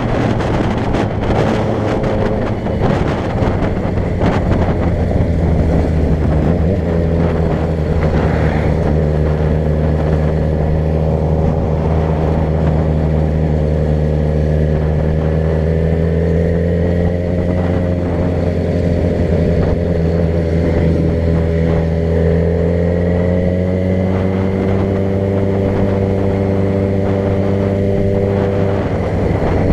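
Car engine running steadily while driving, its pitch drifting gently with speed, over road noise. Crackling bumps through the first few seconds.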